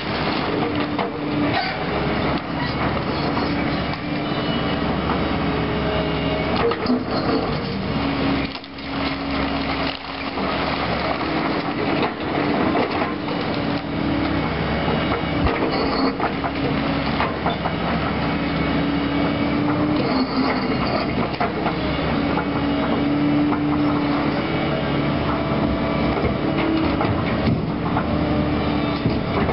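Caterpillar hydraulic excavator working demolition debris: the engine and hydraulics run steadily under load with a wavering whine, over continual crunching and knocking of wood and concrete rubble.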